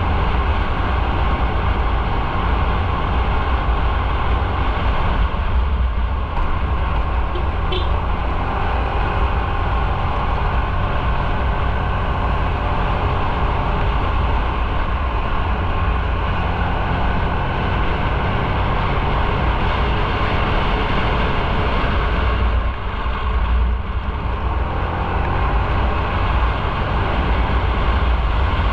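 Motorcycle riding along the road: steady engine and wind noise with a strong low rumble, easing briefly near the end.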